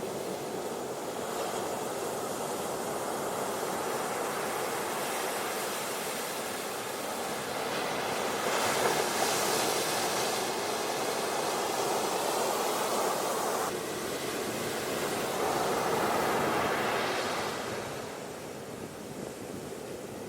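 Ocean surf washing onto a beach in slow swells. Two louder waves break about nine and sixteen seconds in, and the surf eases near the end.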